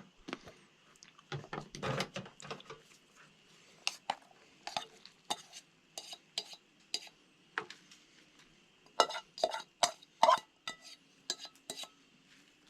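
A utensil clinking and scraping against a camp cooking pot as spaghetti is stirred and served: a run of irregular sharp clinks, some briefly ringing.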